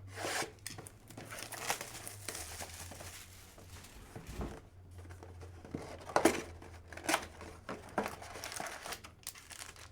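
Plastic wrapping on a trading card box and its packs being crinkled and torn open by hand, a steady crackle with a few sharper rips.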